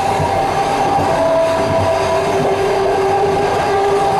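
Suburban passenger train running along the line, heard from inside a carriage's rear vestibule: a steady rumble of wheels on rail with a few humming tones that shift slightly in pitch.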